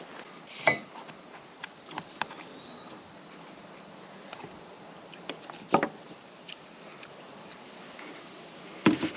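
Steady, high-pitched insect chorus of crickets, with a few sharp clicks and knocks: one soon after the start, two small ones around two seconds in, a louder one a little past halfway and another near the end.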